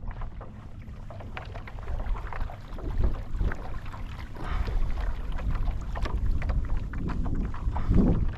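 Kayak being moved through choppy water: irregular splashes and knocks of water against the hull, over a steady low rumble of wind on the microphone.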